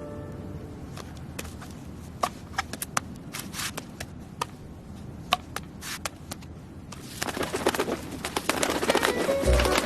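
Bird sounds: scattered light clicks and taps, then from about seven seconds in a denser clatter of taps and rustling.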